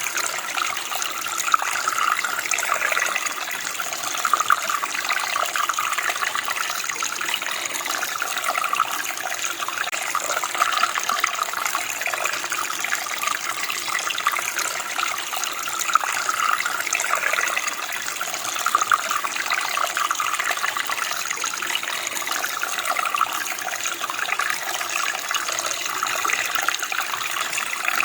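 Running water, a steady splashing and burbling flow like a small stream over stones.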